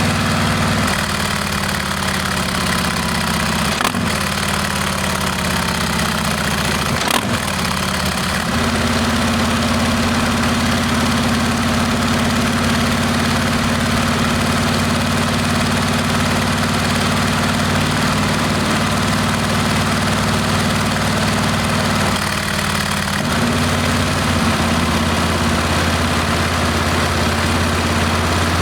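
Harley-Davidson Heritage Classic's Milwaukee-Eight V-twin running through a Rinehart exhaust, a deep, low note. The engine speed shifts over the first several seconds with two short clicks, then holds steady, with a brief dip near the end.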